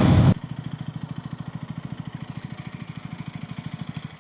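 KTM Duke 250's single-cylinder engine idling with an even, fast putter. Just after the start, the loud rush of riding wind and road noise cuts off suddenly.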